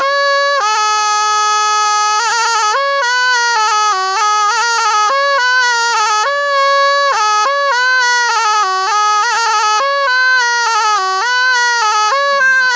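Thai pi, a quadruple-reed oboe, playing a solo melody. A long held note opens, then quick ornamented runs that step up and down in pitch, with a bright, reedy tone.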